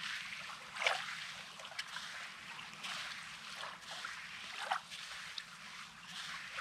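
Small waves of a calm sea lapping and washing onto the beach, one short wash after another every second or so.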